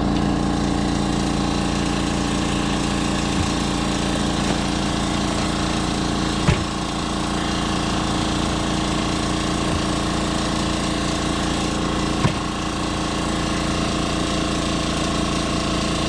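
A steady motor drone runs throughout, with two short sharp knocks, one about six seconds in and another near twelve seconds.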